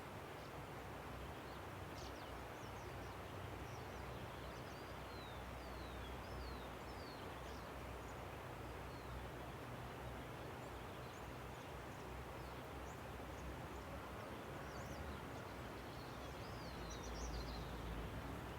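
Steady rushing of a river, with small birds calling over it in short, high, falling chirps scattered through, more of them together near the end. A low rumble swells briefly near the end.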